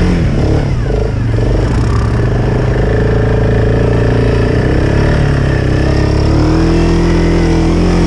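ATV engine running hard under throttle while climbing a slope; its pitch dips slightly midway and rises again near the end.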